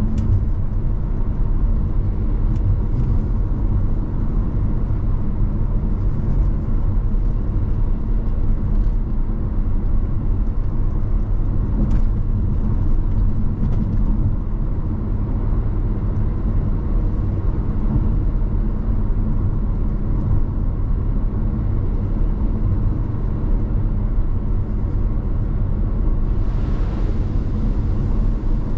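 A car being driven on a highway: a steady low rumble of road and engine noise, with a few faint ticks and a short rise in hiss near the end.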